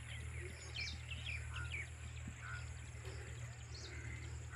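Small birds chirping, many short falling calls, over a steady low rumble.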